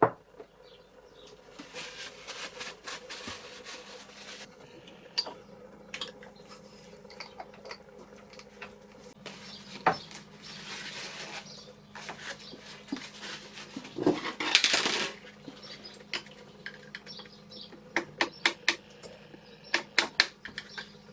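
Metal tools and engine parts clinking and knocking during hands-on diesel engine servicing, a scatter of sharp clicks with a few short rustling scrapes and a quick run of clicks near the end. A faint steady hum sits underneath.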